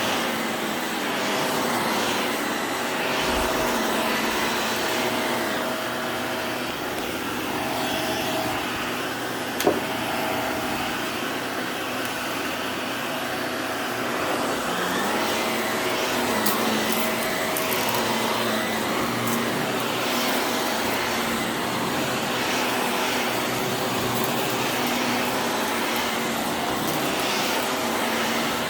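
Vacuum cleaner running continuously, its motor steady throughout, with one sharp click a little under ten seconds in.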